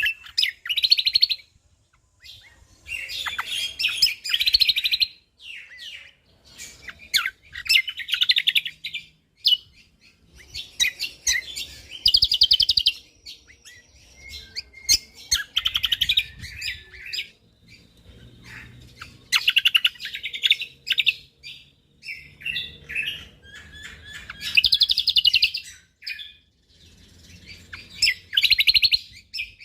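Cucak kombo (kecial kombo) songbird singing in its rapid, tightly packed 'full tembakan' bursts: runs of fast chirping notes lasting a second or two, repeated about every three to four seconds.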